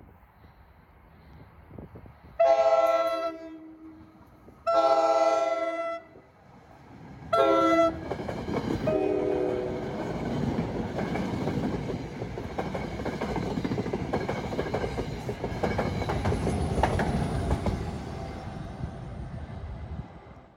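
New Jersey Transit train sounding its multi-tone horn, two long blasts and a short one, then a fainter fourth as it arrives: the grade-crossing pattern. It then passes with a steady rumble of wheels on the rails, rising and falling over about twelve seconds.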